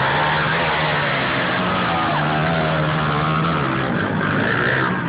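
A pack of mini dirt bikes running together, several small engines overlapping with their pitches rising and falling as the riders work the throttles.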